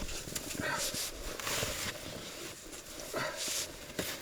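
Snow crunching in a few irregular bursts of about half a second each, the loudest about halfway through and a second one past three seconds in.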